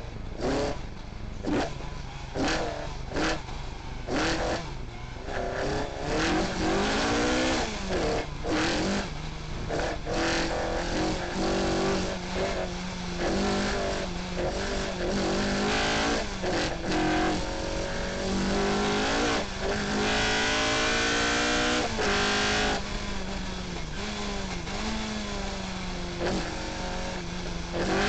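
Ford Escort Mk2 rally car engine heard from inside the car at full stage pace. Short stabs of throttle come over the first few seconds. After that come long pulls where the pitch climbs and then drops at each upshift, held at high revs for a couple of seconds past the middle.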